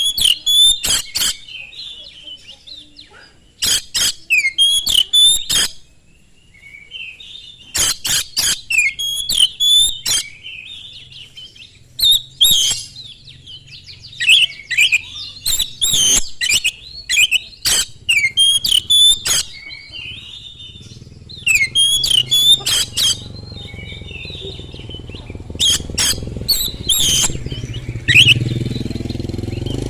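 Oriental magpie-robin (kacer) singing in full, vigorous song: rapid phrases of sharp, penetrating whistles and clicking notes, delivered in bursts with short pauses between them. A low rumble rises in the background over the last several seconds.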